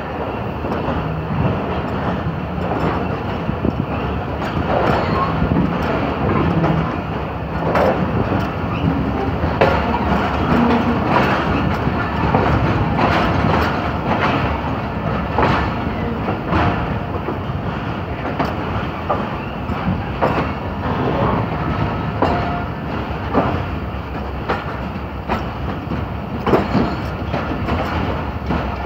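Passenger train pulling out of a station, heard from an open coach doorway: a steady rumble of wheels on the rails with irregular clicks and clacks as the wheels cross rail joints and points.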